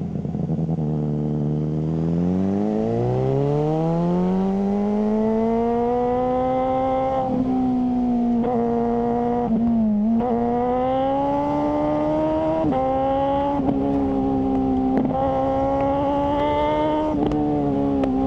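Suzuki GSR600 inline-four engine running through a GPR Ghost aftermarket exhaust. The revs climb steadily over the first several seconds, then hold high with several brief dips, and ease off slightly near the end.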